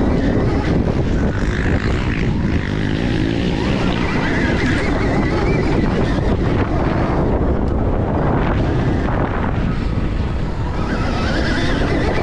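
Stark Varg electric dirt bike being ridden: a steady rumble of wind on the microphone, with a faint electric-motor whine that rises and falls with speed.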